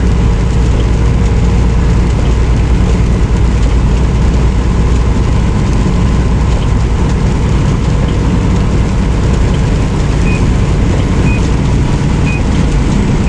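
Steady low engine and road rumble inside a semi truck's cab. Near the end, three short high beeps sound about one a second.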